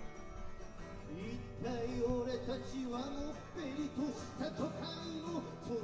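A man singing with acoustic guitar accompaniment; the voice comes in about a second in with long, wavering held notes over steady strummed chords.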